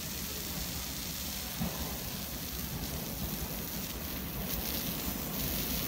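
Taiwan Railways EMU900 electric commuter train approaching along the platform: a steady low rumble with a hiss of noise over it, growing a little louder near the end.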